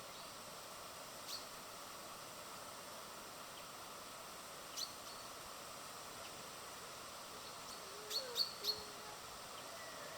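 Birds at a feeder giving short, sharp chirps: one, then another a few seconds later, then a quick run of three near the end, over a steady outdoor hiss.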